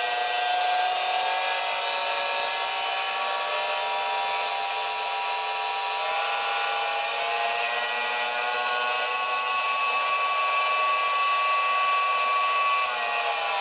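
Homemade 40106 CMOS hex-oscillator noise synth droning: several steady, overlapping electronic tones over a hissy noise layer. It plays through a reverb-delay unit and small amp. Near the end the pitches slide downward together.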